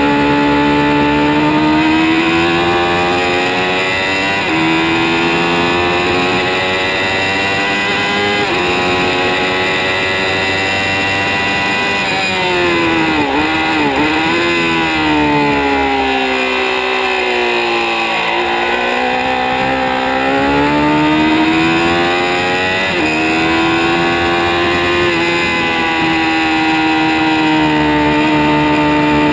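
2006 Kawasaki ZX-6R 636 inline-four running hard at high revs, climbing and dropping back with each upshift. About halfway in, quick throttle blips mark the downshifts into a braking zone, and the pitch falls steadily as the bike slows through a corner. Then it climbs again, with another upshift near the end.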